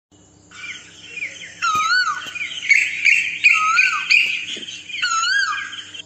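Birds calling together: a clear whistled note that rises and falls, three times, over busy higher chirping that is loudest in the middle.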